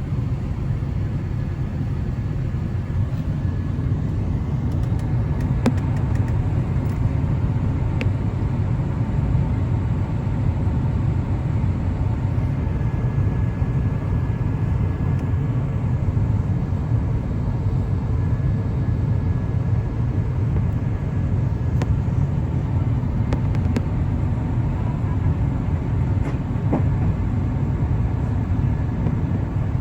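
Steady low cabin roar inside an Airbus A350-1000 on descent: airflow over the fuselage and its Rolls-Royce Trent XWB engines, with a few faint ticks.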